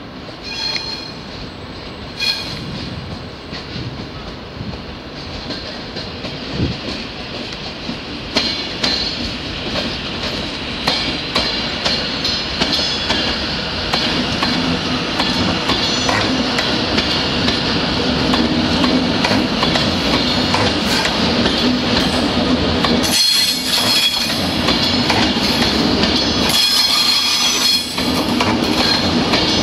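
Class 390 Pendolino electric train running slowly into the station, its wheels squealing and clicking over rail joints and pointwork, growing louder as it comes close and passes.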